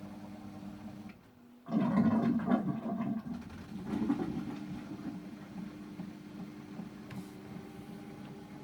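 Samsung WW900 washing machine in its Super Speed rinse: the drum motor hums steadily, goes quiet about a second in, then water rushes and splashes into the drum for a second or two, with a smaller surge a couple of seconds later, before the hum carries on.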